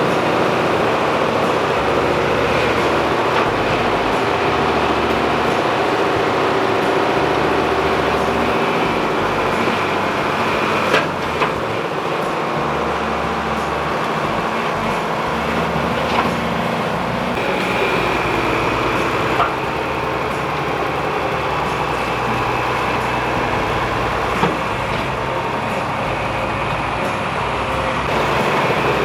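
A farm tractor's engine running steadily, its low note shifting a little now and then, with a few sharp clicks or knocks.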